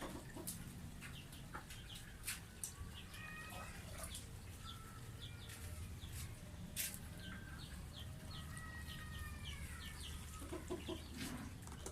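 Faint bird calls, a series of short clucks, over a low steady hum, with a few sharp clicks scattered through.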